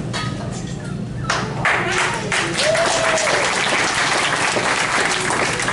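Audience applauding, the clapping swelling about a second in, with a whoop of cheering about three seconds in: an enthusiastic welcome for a performer.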